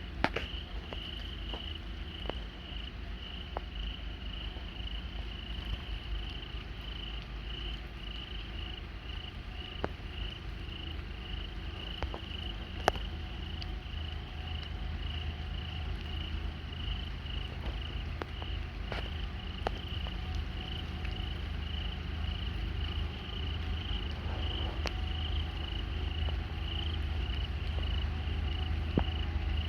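An insect chirping steadily in a high, even pulse about twice a second. Under it the low rumble of approaching diesel locomotives slowly grows louder toward the end, with a few scattered sharp ticks.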